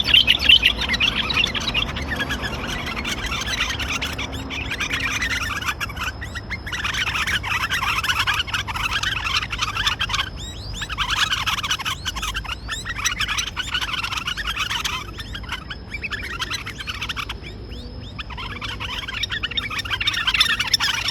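White-cheeked bulbuls giving rapid, harsh chattering calls in a fight, in several loud bouts broken by short pauses.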